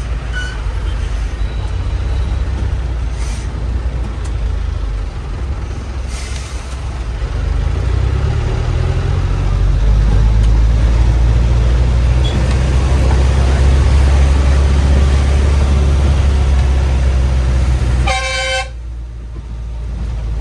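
Bus engine running with a steady low drone that grows louder about eight seconds in. Near the end a horn toots once, briefly, and the engine noise then drops quieter.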